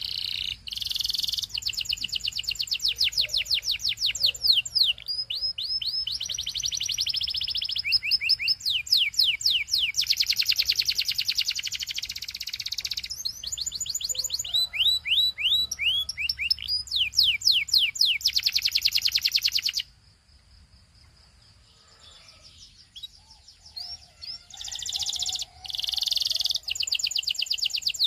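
Canary singing: a long song of fast trills and rolls, each phrase a rapid run of high repeated notes. The song breaks off about twenty seconds in and picks up again a few seconds later.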